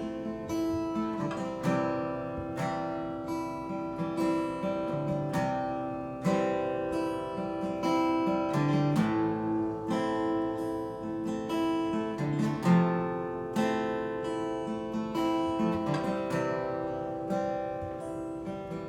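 Acoustic guitar playing strummed chords that ring on, the instrumental introduction to a song before the vocals come in.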